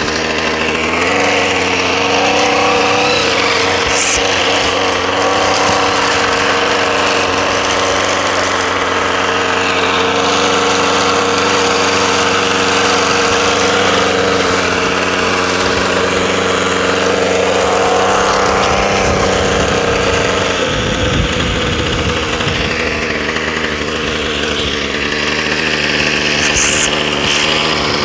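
Two-stroke string trimmer engine running steadily while it warms up after a cold start. Its pitch rises about a second in and wavers again around two-thirds of the way through.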